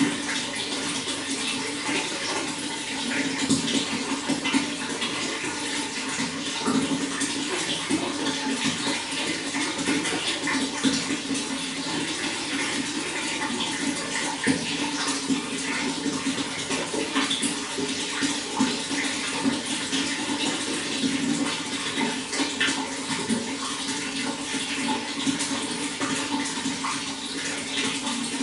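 Running water flowing and splashing steadily, an even rush with many small splashes throughout.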